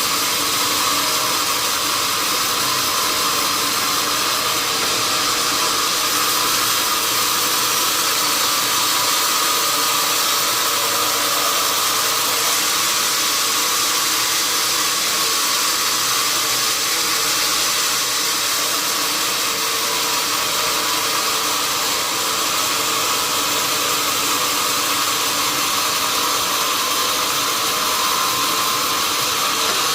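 Sawmill saw running steadily: a loud, even mechanical noise with a faint steady whine, unchanged throughout.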